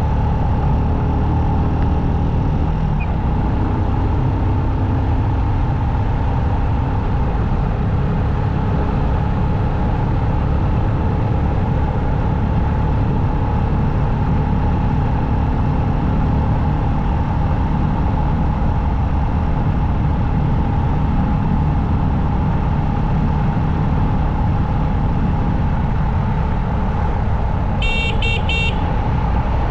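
Steady motorcycle riding noise at road speed: engine, wind and tyre noise. Near the end, three quick short horn beeps in a row.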